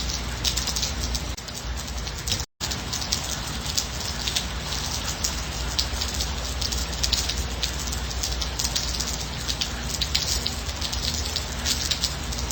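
Steady gentle rain, with many individual drops striking close by over a low steady rumble. The sound cuts out completely for an instant about two and a half seconds in.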